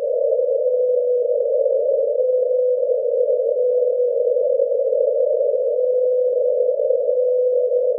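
Underwater recording of the '52 Hz whale' call, played sped up so that it sits near 500 Hz: a steady hum in a narrow band of hiss, with a clean tone that comes and goes about once a second.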